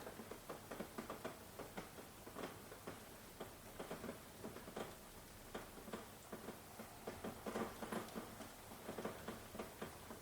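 Rain dripping and pattering, with heavy drops tapping irregularly several times a second over a soft hiss of falling rain.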